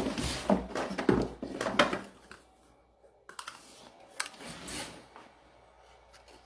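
A run of light clicks and rustles, dense in the first two seconds, then scattered quieter clicks a little later.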